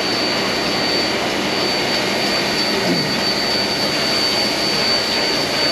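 Reading T-1 4-8-4 steam locomotive standing at rest, giving off a steady loud hiss of steam with a thin high whistle-like tone running through it.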